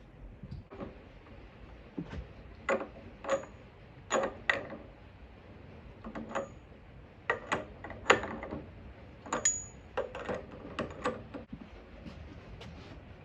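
Metal tools and engine parts clinking and clanking during engine disassembly: irregular short knocks, several ringing briefly.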